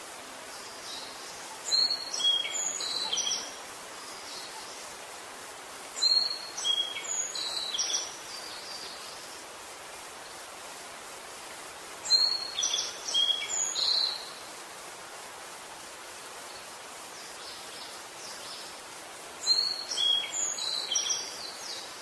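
A songbird singing four short phrases of high chirping notes, each about two seconds long and several seconds apart, over a steady hiss.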